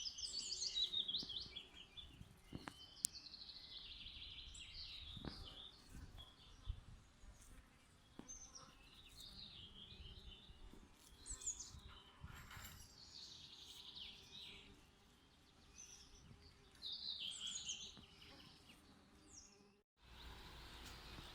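Faint songbird singing: short, quick chirping phrases repeated every second or two. Near the end the song breaks off abruptly and only a faint hiss remains.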